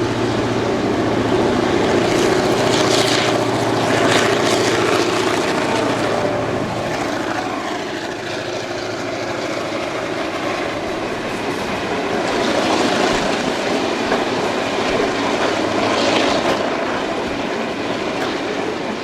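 EMD diesel-electric locomotive running with a steady low engine hum as the train rolls along the rails, with wheel-on-rail noise and several louder swells; the engine hum fades partway through.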